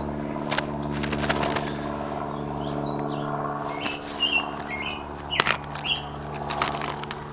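Sticks and twigs being handled and set in place, with several sharp cracks and clatters. Small birds chirp briefly in the middle and toward the end, over a steady low hum.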